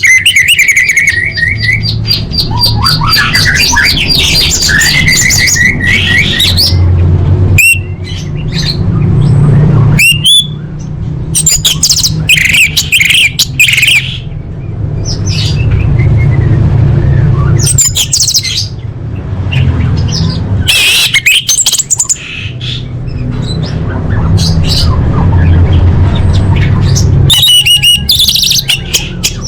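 An orange-headed thrush singing a long, varied song of loud, rapid phrases, trills and chirp series with short pauses between them, over a steady low rumble.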